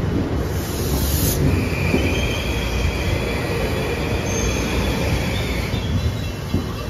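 Kawasaki M8 electric multiple-unit cars rolling past close by, with a low rumble of wheels on rail. A steady high wheel squeal comes in about a second and a half in. The rumble eases as the last car clears near the end.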